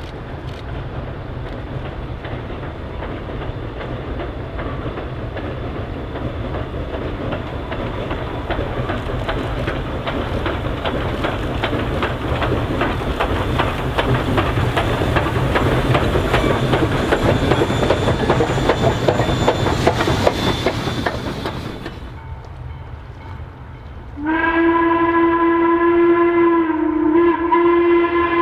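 A train approaching: a dense clatter of wheels and running gear that grows steadily louder for about twenty seconds, then cuts off abruptly. A couple of seconds later, a locomotive sounds a loud, long multi-note blast on its horn or whistle, with a slight dip in pitch partway through.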